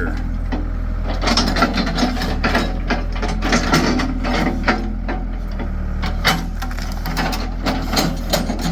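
Backhoe engine running steadily under a string of irregular woody cracks and knocks as a freshly pulled tree stump and its roots are worked free of the ground.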